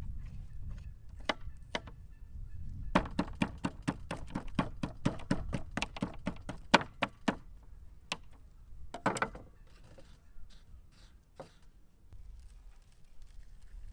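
A run of quick knocks, about five a second for some four seconds, with scattered single knocks before and after it.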